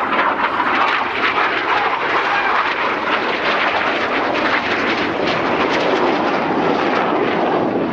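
Jet noise from the Red Arrows synchro pair of BAE Hawk T1 jets flying their double rolls: a loud, steady rushing noise that deepens in the second half.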